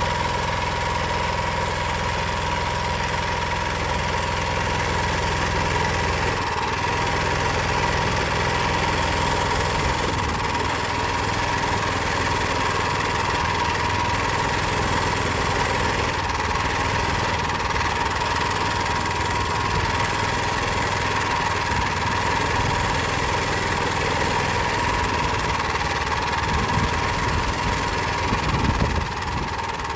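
Power Fist 79cc single-cylinder four-stroke engine on a homemade mini bike running steadily, its low-end sound changing about six seconds in.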